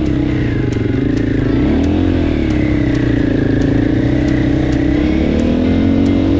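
KTM off-road motorcycle engine running in sand, its pitch rising and falling as the throttle is worked, with music underneath.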